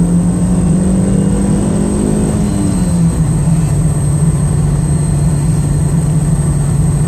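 Car engine and road noise heard from inside the cabin while driving at a steady speed. The engine's steady hum drops slightly in pitch about three seconds in.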